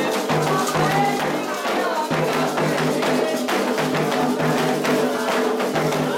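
Candomblé atabaque drums played continuously, led by the rum, with many dense strokes, and voices singing over them.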